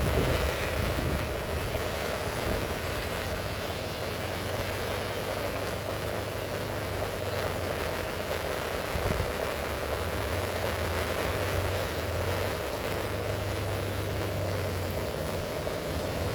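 Heavy rain falling steadily, with a low steady rumble underneath.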